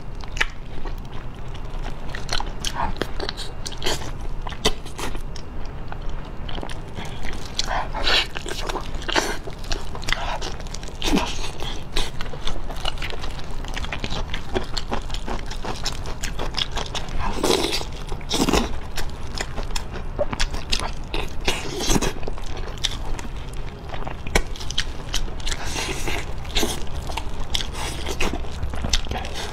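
Close-up eating sounds: biting, chewing and sucking soft, sticky braised pig's trotters and tails, with irregular wet mouth clicks and smacks and a few louder bites along the way.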